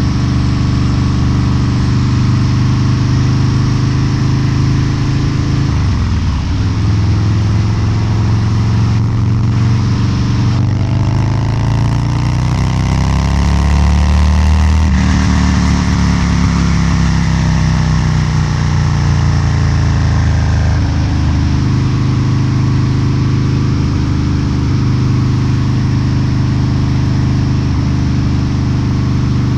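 Harley-Davidson Low Rider's 129 cubic inch V-twin with a Two Brothers Racing exhaust, running steadily at low revs, then revving up for several seconds and winding back down to a steady low beat.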